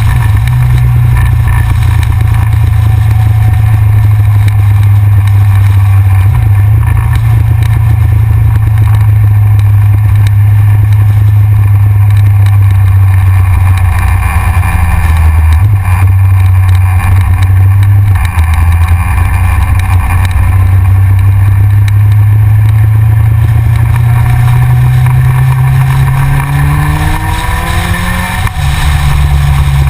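Yamaha XJR's inline-four engine running under way at a steady cruise, with wind rush over the front-mounted camera. Near the end the engine note climbs as it accelerates, then falls away suddenly as a gear changes.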